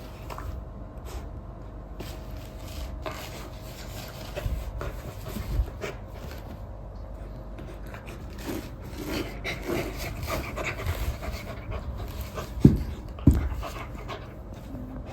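Golden retriever panting, with small clicks and rustles throughout. Two sharp, loud knocks about half a second apart come near the end.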